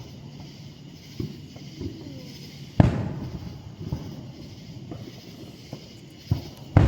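Aerial fireworks shells bursting: a series of booms, the loudest about three seconds in and two close together near the end, with smaller bangs between and a low rumbling echo after each.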